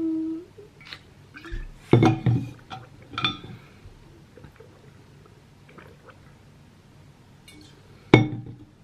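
Several light clinks of hard objects, each with a brief ringing tone: two close together about two seconds in, another just after three seconds, and one near the end.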